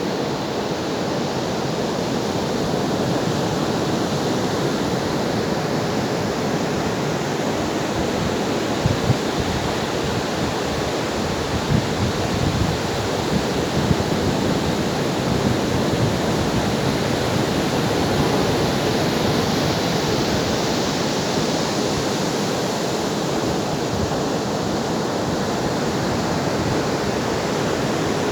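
Ocean waves breaking and washing on the shore in a steady rush of surf, swelling and easing slowly, with a few low thuds of breaking water about nine to fourteen seconds in.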